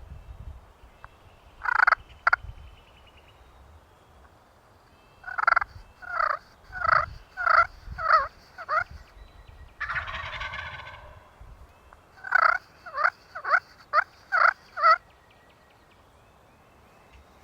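Wild turkey yelping: two notes, then two runs of about seven sharp, descending yelps, with a roughly one-second rattling burst between the runs.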